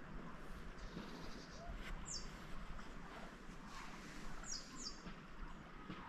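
A bird chirping outdoors: short high notes falling in pitch, once about two seconds in and twice in quick succession a little after four and a half seconds, over a faint steady hiss of outdoor air.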